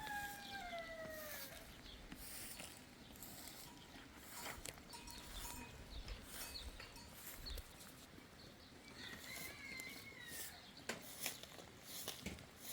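Faint farmyard animal calls: a rooster's crow trails off, falling in pitch, in the first second or so. A second, higher animal call comes about nine seconds in, with scattered faint clicks between the calls.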